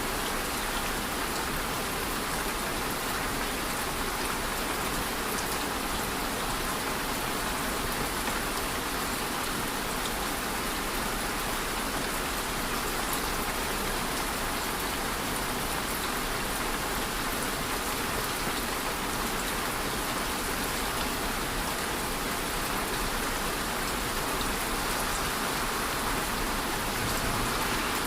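Steady, even rain falling, with a continuous hiss and fine pattering of drops on a surface.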